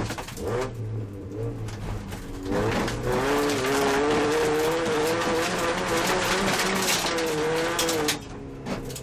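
Opel Astra GSi rally car's engine heard from inside the cabin. It runs at part throttle at first, then revs up hard about two and a half seconds in and is held high under full power until it drops off near the end as the throttle is lifted. Sharp clicks of loose gravel under the car run throughout.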